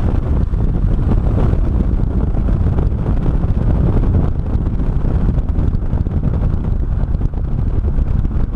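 Heavy wind buffeting the microphone while driving in an open car with no windshield, over the engine and road noise of the moving vehicle.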